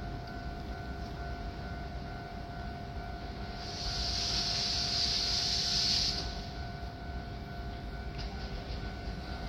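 Commuter train running: a steady low rumble with a few constant hums. About three and a half seconds in, a hiss rises over it for about two and a half seconds and then cuts off.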